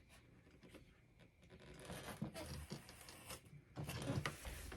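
Faint, irregular scratching of a surgical razor blade slicing through foam board.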